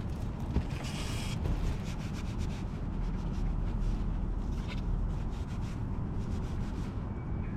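A hiss that stops about one and a half seconds in, then a run of quick rubbing or scraping strokes over a steady low rumble.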